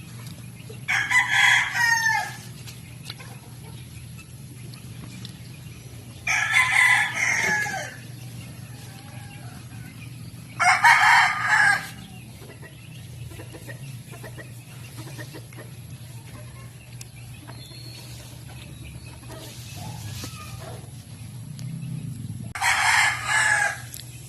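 Rooster crowing: four crows of a second or so each, spaced unevenly, over a steady low hum.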